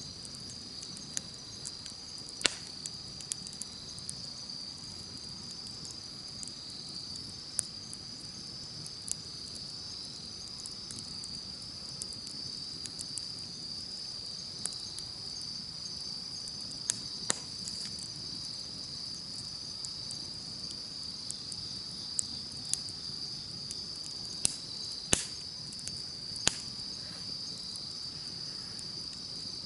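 Wood campfire crackling with scattered sharp pops, a loud one about two seconds in and a couple more near the end, over a steady high-pitched chorus of insects.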